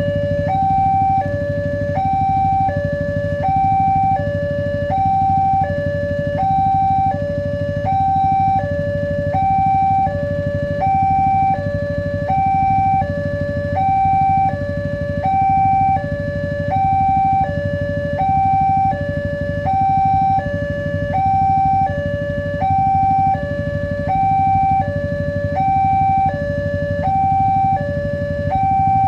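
Electronic warning alarm of an Indonesian railway level crossing sounding, a steady two-tone alternation, higher then lower, about one change every 0.7 seconds. A steady low rumble runs beneath it.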